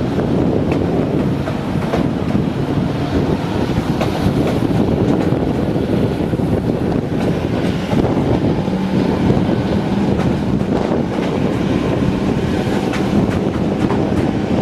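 Heritage diesel locomotive running, with a steady engine note coming through about halfway in, heard under heavy wind noise on the microphone.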